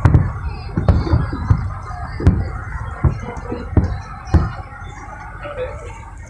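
Fireworks bursting overhead: a run of booms about one a second, each with a low rumble, easing off after about four and a half seconds.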